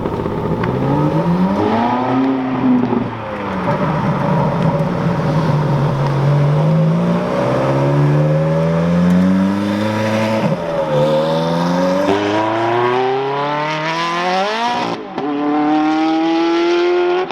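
A car engine accelerating hard through the gears. Its pitch climbs steeply, then falls back at each change, most sharply about ten and a half seconds in and again near fifteen seconds.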